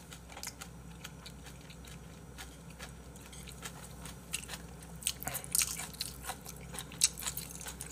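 Close-up chewing and biting of braised spicy monkfish with bean sprouts: a string of small wet clicks and crunches, coming thicker about five seconds in.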